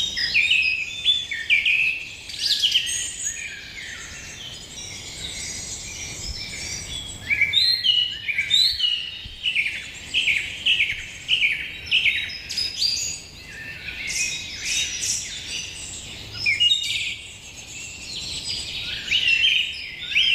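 Several small birds chirping and calling over one another: a dense chorus of short, high chirps and quick note sweeps.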